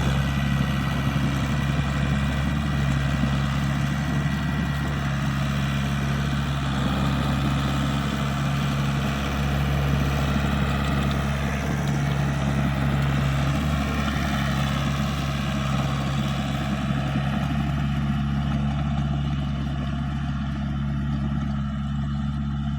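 Komatsu bulldozer's 4D92 four-cylinder diesel engine running steadily.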